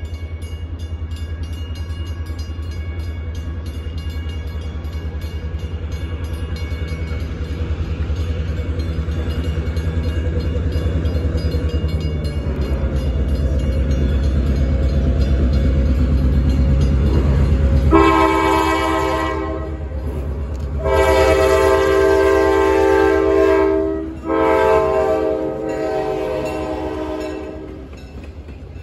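Great Smoky Mountains Railroad diesel locomotive approaching, its engine rumble growing steadily louder, then sounding its chime horn three times: a shorter blast followed by two longer ones, as the passenger coaches begin rolling past.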